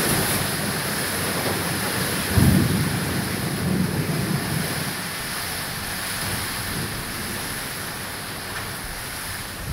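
Rain falling steadily on a corrugated-metal barn, a constant hiss, with a low rumble from about two and a half to four and a half seconds in.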